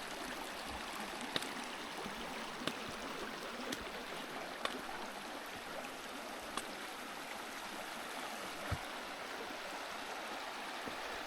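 Kanarra Creek's shallow mountain water rushing steadily over rocks in the slot canyon. A few light, sharp clicks are scattered through it.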